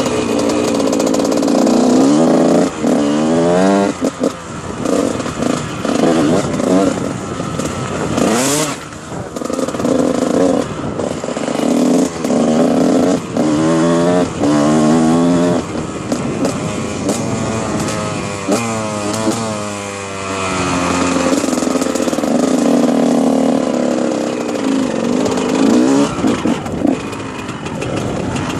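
Dirt bike engine being ridden, its revs climbing and dropping back again and again.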